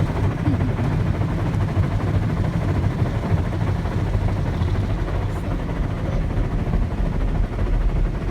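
Automatic car wash working over a car: a steady low rumble of the wash machinery with the hiss of water spraying on the body.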